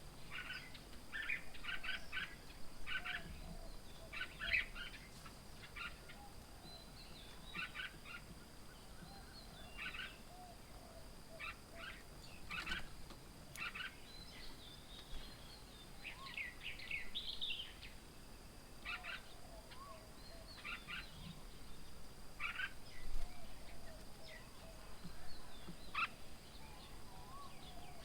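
Wild birds chirping and calling in short clusters of notes every second or two, over a low steady outdoor background.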